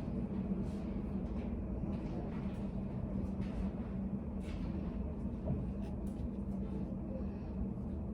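Steady low room hum with a few faint, scattered ticks and soft knocks.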